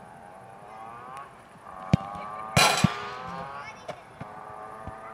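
A motor vehicle's engine drones in the background, rising slowly in pitch. A single sharp thump comes about two seconds in, followed just after by a short, loud rush of noise.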